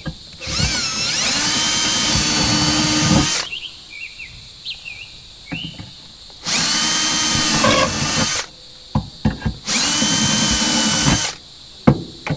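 Electric drill boring holes through the bottom of a battery box, run three times: a first run of about three seconds that rises in pitch as the motor spins up, then two shorter runs, with small knocks and clicks of handling between them.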